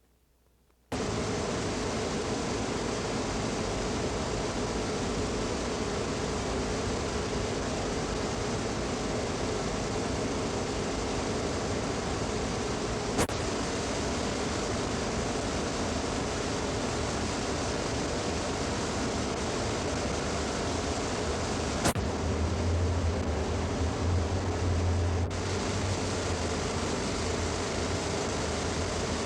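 Steady rushing noise that starts abruptly about a second in, with two sharp clicks and a brief low rumble past the middle.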